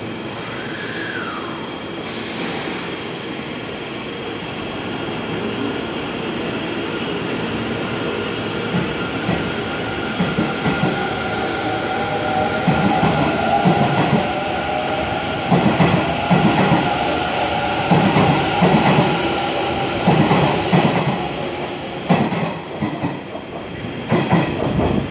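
Hanshin electric commuter train pulling out of a station, its traction motors whining as it gathers speed. Its wheels then clack over the rail joints in a run of regular knocks, many in pairs, growing louder as the cars pass. The clacking stops near the end.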